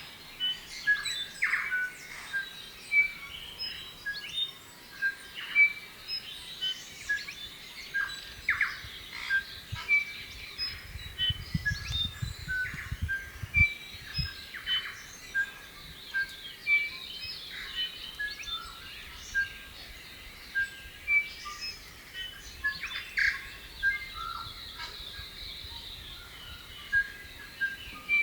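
New Zealand bellbird (korimako) singing: a long run of short, clear, ringing notes and chirps. A low rumble runs underneath from about ten to fourteen seconds in.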